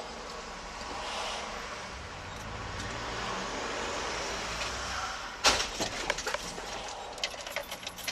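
Steady road noise from a moving car, then a sudden loud bang about five and a half seconds in, followed by scattered clattering and rattling: a car collision.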